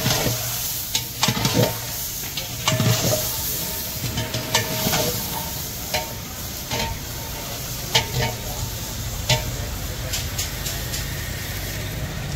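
Chicken, tomatoes and onions frying with spices in a large cooking pot, sizzling steadily while a ladle stirs and scrapes, knocking against the pot every second or so, over a steady low hum.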